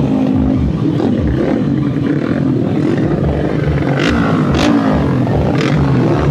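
Tuned 130 cc underbone racing motorcycles running at high revs, their engine pitch rising and falling.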